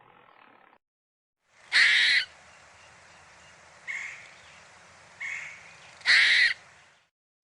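A bird calling four times in short calls: a loud one about two seconds in, two softer ones in the middle, and a loud one near the end.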